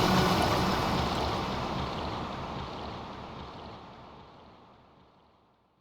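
The soundtrack's closing wash of noise, like wind or surf, left after the music's pitched notes have stopped. It fades out evenly over about five seconds.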